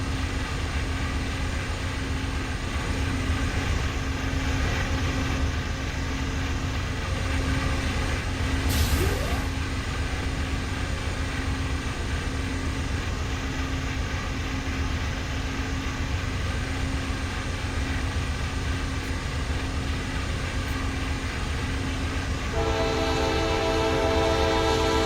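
Norfolk Southern train rumbling steadily. Near the end its horn comes in suddenly, a chord of several notes held steady.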